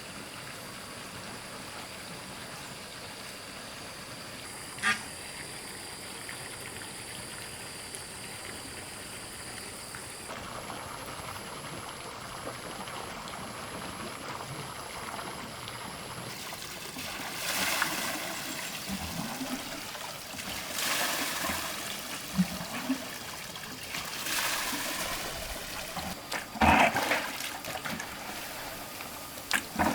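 Water trickling steadily, then poured or splashed in several louder surges a few seconds apart in the second half, the loudest near the end. One short sharp sound about five seconds in.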